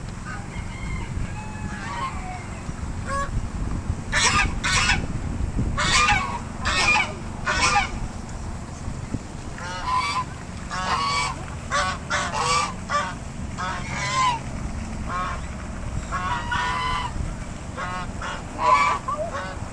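Old car horns honking again and again, in short single and paired blasts, over a steady low rumble.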